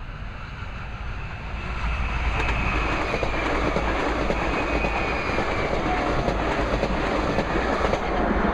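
A train passing close by. The rumble builds over about two seconds and then holds steady, with the wheels clicking over rail joints and a faint high whine above.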